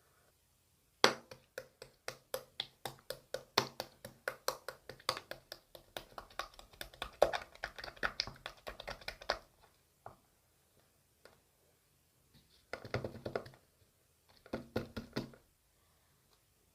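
A rapid series of light taps or clicks, about four or five a second, for some eight seconds, then two short bursts of taps near the end.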